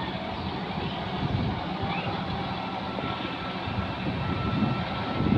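John Deere 5210 tractor's diesel engine running steadily under load, driving a rotavator through wet mud: a continuous low rumble.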